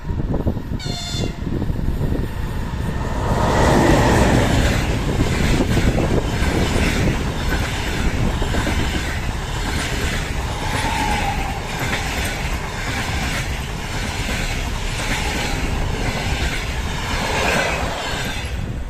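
Passenger coaches of a fast train running past at speed, their wheels beating a regular clickety-clack over the rail joints. A brief high tone sounds about a second in, just before the rush of the passing cars builds.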